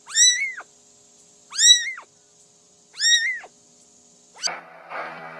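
A cat meowing three times, about a second and a half apart, each call rising and then falling in pitch. Music with guitar starts near the end.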